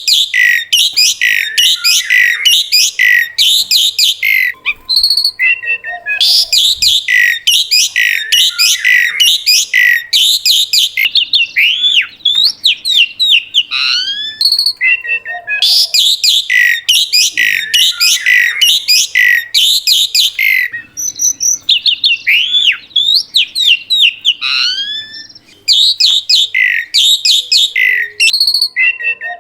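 Asian pied starling (jalak suren) singing loudly in long, rapid runs of sweeping whistles, chirps and harsh squawks, broken by a few short pauses.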